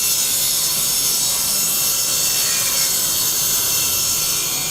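Table saw blade ripping a board fed along the fence, a loud steady high whine with the rasp of the wood being cut.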